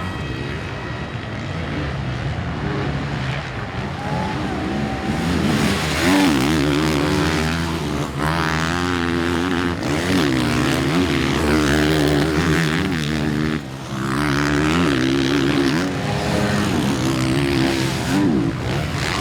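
Several motocross race bikes revving hard on track, their engine pitch rising and falling over and over as the riders work the throttle and shift, with more than one bike heard at once.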